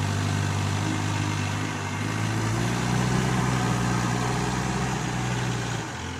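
Backhoe loader's diesel engine running steadily. About two seconds in it revs up to a higher pitch and holds there, then drops back down just before the end.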